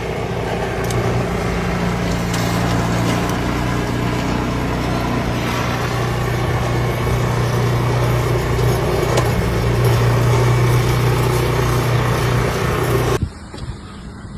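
An engine running steadily under a loud rushing noise; it cuts off abruptly near the end.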